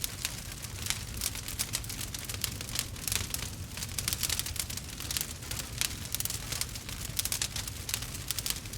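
Wood fire burning with a dense, irregular crackle and snapping pops over a low steady rumble.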